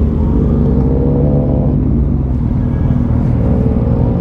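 Motorcycle engine running under way over a steady low rumble, its note rising twice as it accelerates.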